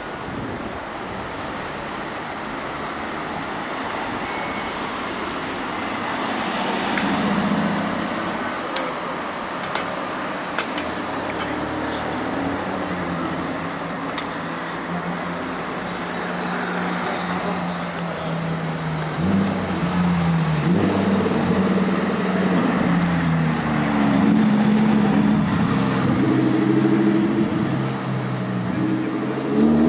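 Street traffic, then in the second half a Lamborghini Huracán Performante's V10 engine running through low-speed revs. Its pitch steps up and down several times and it grows louder toward the end.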